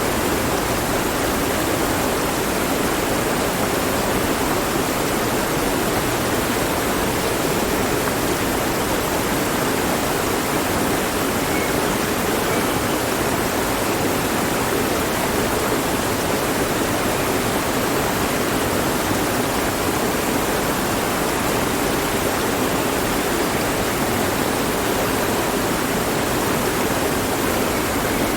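Mountain stream rushing steadily over rocks, an even, unbroken wash of water sound.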